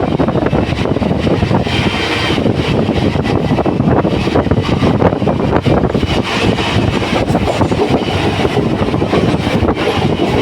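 Train in motion: a loud, steady rumble with continuous rattling and clatter.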